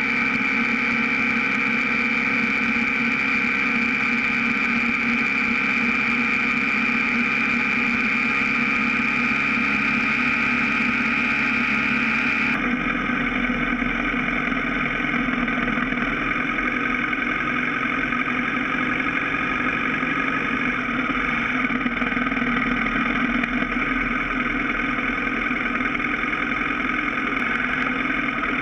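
BMW F650 GS motorcycle engine running steadily while riding, heard from a bike-mounted camera, with a steady high whine over it. About halfway through the sound changes abruptly: the whine drops away and the engine runs on at a slower town pace.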